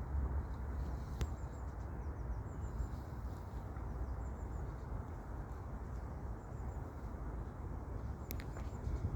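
Outdoor background: a steady low rumble, with faint short high chirps of small birds every so often. Two sharp clicks come about a second in and near the end.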